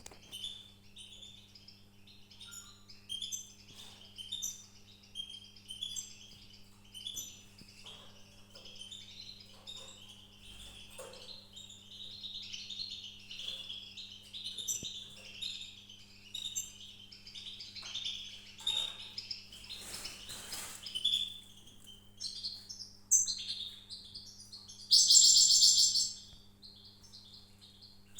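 Small songbirds chirping in quick, repeated short notes, with a loud burst of song near the end, over a steady low electrical hum.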